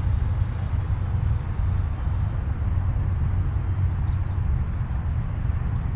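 Electric ducted-fan RC model jet flying by, its hissing whine slowly fading as it moves away, over a heavy rumble of wind on the microphone.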